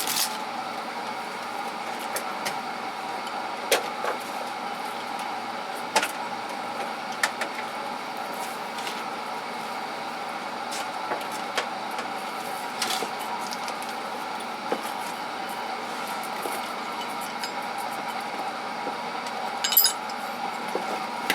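Small metal tools and parts clinking and knocking now and then as they are handled and set into tool chest drawers, over a steady background hum.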